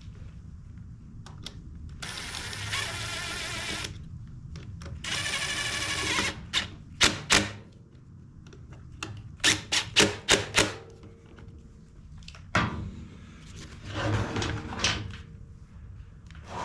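Handheld power screwdriver whirring in two bursts, about two seconds and one second long, followed by sharp clicks and knocks of small parts being handled.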